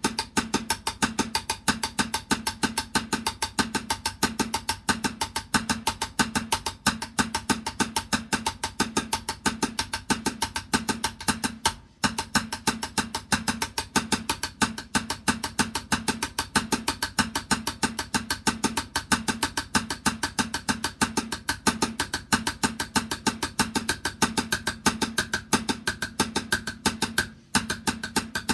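Fast, even drumming, many strokes a second at a steady level, breaking off briefly about twelve seconds in and again near the end.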